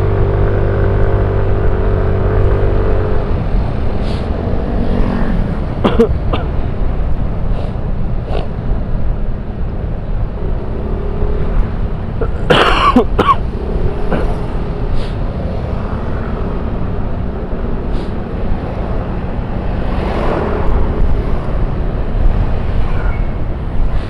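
Motorcycle riding on the road: steady engine and road rumble under heavy wind noise, with other traffic around and a few sharp knocks, the loudest about halfway through.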